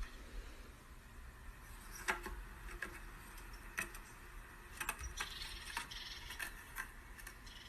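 Quiet room with faint, scattered clicks and light taps, a dozen or so spread irregularly.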